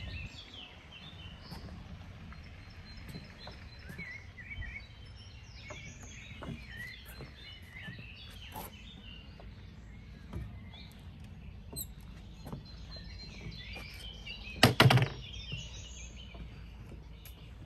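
Small songbirds chirping and singing in woodland over a low steady background rumble. A brief loud clatter of a few quick knocks comes late on.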